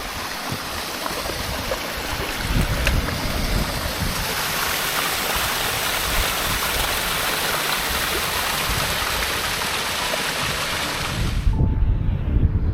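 Strong blizzard wind, a steady rushing hiss. Near the end the hiss cuts off suddenly and low, gusty wind buffeting on the microphone takes over.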